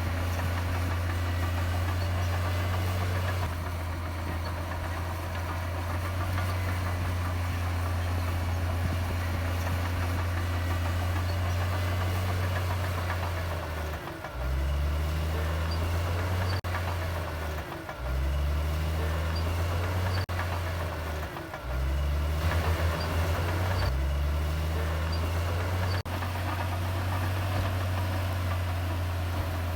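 Heavy diesel earthmoving engine running at a steady speed; about halfway through its pitch drops and climbs back up four times in quick succession before settling steady again, with a few sharp clanks in between.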